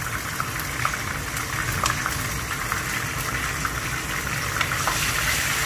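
Ground chili, onion and garlic paste frying in hot oil in a wok with fenugreek, mustard seed and curry leaves, sizzling steadily with fine crackles.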